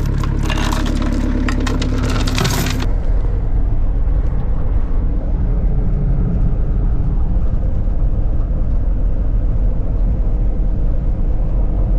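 An engine running steadily, with metallic rattling and clatter for about the first three seconds. After that the rattling stops and a heavier, uneven low rumble takes over.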